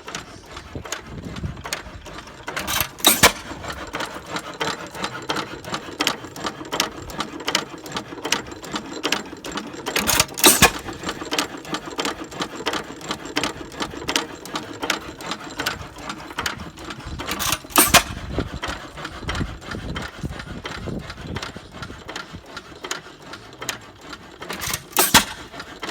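6 hp Associated hit-and-miss engine running: it fires four times, about once every seven seconds, with steady mechanical clicking from the valve gear and governor as the flywheels coast between firings.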